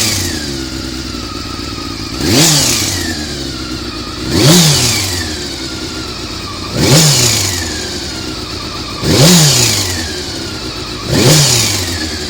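Honda CBR400RR inline-four idling and blipped five times, roughly every two seconds, each time rising sharply in revs and falling back to idle. The engine makes an abnormal noise that the owner suspects comes from the cam gear train.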